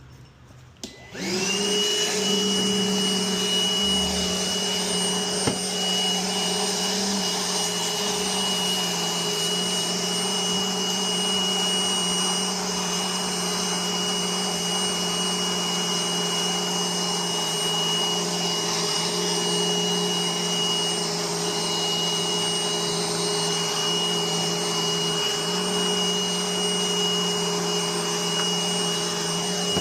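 Electric vacuum cleaner switched on about a second in. Its motor spins up quickly, then runs steadily with a high whine.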